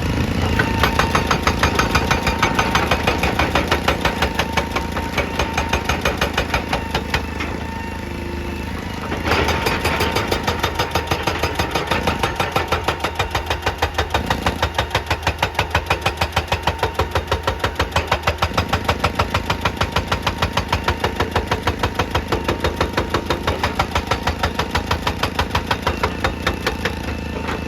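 Excavator-mounted hydraulic breaker hammering rock in a fast, even run of blows over the excavator's diesel engine. The blows weaken around eight seconds in, then resume harder a second later.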